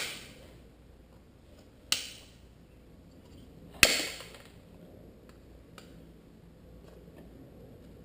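Three sharp metallic strikes about two seconds apart, each with a short bright ring, as the tabs on an HID projector shroud are cut off with hammer blows on a chisel.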